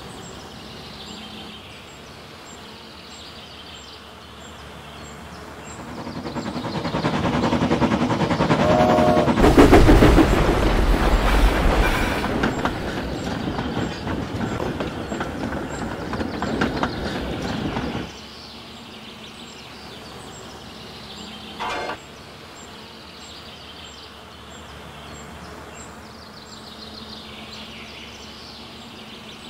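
A passing train: it builds over a few seconds into a loud rumble and clatter of wheels on rails, holds, then cuts off abruptly. A brief pitched tone follows a few seconds later over a steady background hum.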